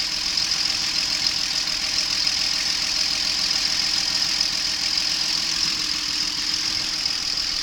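Ford 4.0-litre SOHC V6 engine of a 2008 Explorer idling steadily and evenly, with a steady high hiss over it; by ear it sounds healthy.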